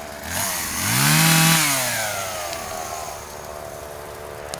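Chainsaw engine revving up for about a second and a half, then easing back down toward idle.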